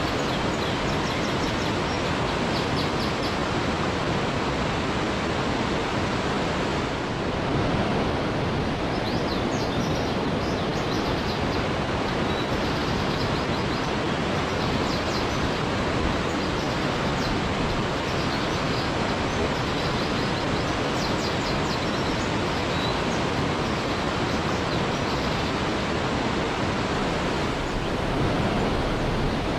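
Waterfall: a steady, even rush of falling water, with faint short high chirps scattered over it.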